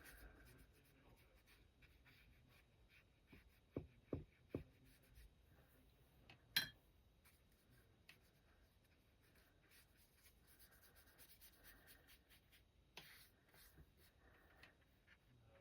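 Near silence with the faint brushing of a wet paintbrush on watercolour paper, three light taps about four seconds in, and a single sharper click a couple of seconds later.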